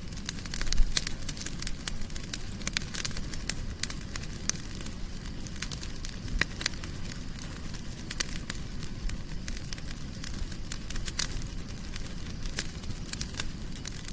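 Wood fire burning in a fireplace, crackling with irregular sharp pops over a low steady rumble. The loudest pop comes about a second in.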